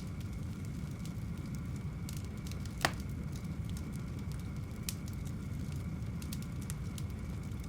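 Fire crackling in a fireplace: a steady low rumble of flames with scattered small crackles, and one louder pop about three seconds in.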